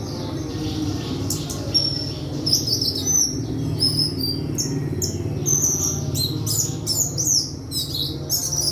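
A white-throated flycatcher (sikatan kerongkongan putih) singing a quick series of short, high chirps and trills, which grow denser from about a second in, over a steady low hum.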